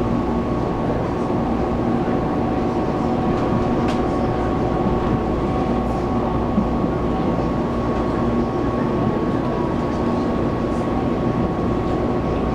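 Running sound of a Taiwan Railways local train (區間車) heard from inside the carriage: a steady rumble with a few held humming tones over it.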